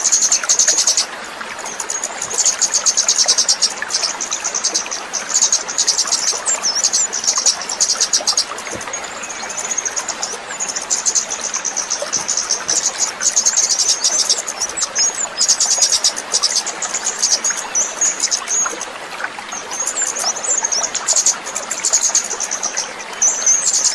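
A songbird gives rapid, high-pitched trilling chirps in runs of a few seconds with short breaks, over the steady rush of a running stream.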